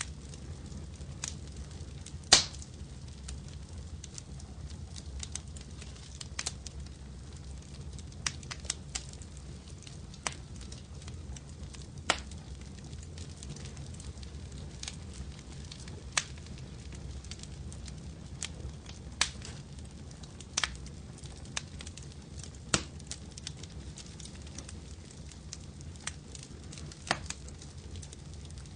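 Wood fire crackling: irregular sharp pops and snaps every second or two, the loudest about two seconds in, over a steady low rumble of the flames.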